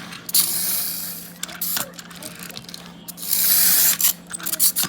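Pullback spring motor of a Choro Q toy train car whirring as its wheels spin, in two bursts about half a second and three seconds in, with small ratcheting clicks between. The whirr is a little noisy, though the mechanism is undamaged.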